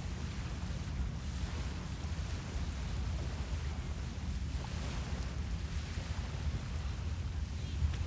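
Steady low rumble with an even hiss and no distinct events.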